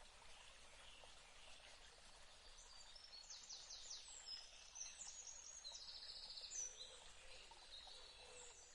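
Faint outdoor ambience of small birds chirping and trilling high up, with quick series of notes from about three seconds in, over a low hiss.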